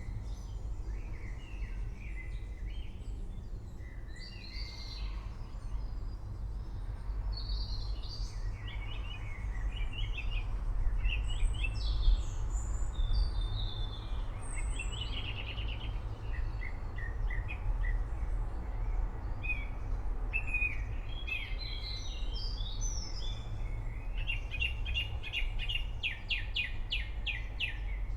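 Several birds chirping and singing over a steady low rumble, with a fast trill of repeated notes near the end.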